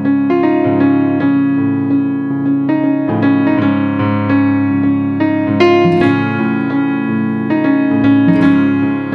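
Background music played on piano, a steady run of struck notes and held chords.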